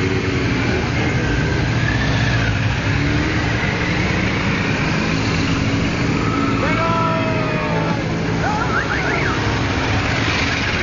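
Many motorcycles running together, a steady, dense mix of engines, with a few short rising and falling tones between about six and nine seconds in.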